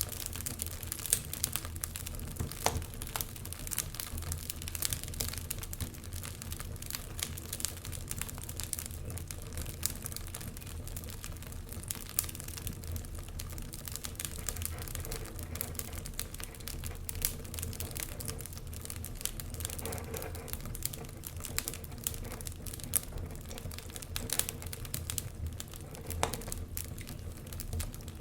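Logs burning in a fireplace, crackling with many irregular sharp pops and snaps over a low, steady rush of flame.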